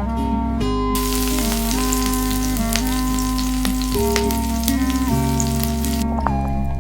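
Background music with a crackling hiss over it that starts about a second in and cuts off near the end.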